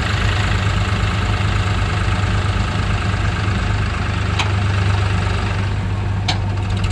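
Powertrac 434 tractor's diesel engine running steadily at idle, with two short high chirps falling in pitch in the second half.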